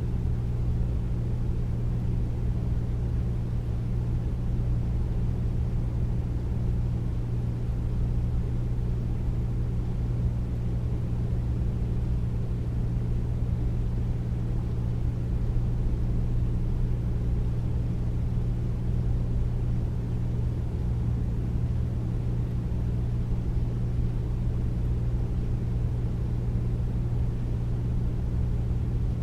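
Air conditioner running steadily: a deep, even hum with a low whooshing hiss of moving air.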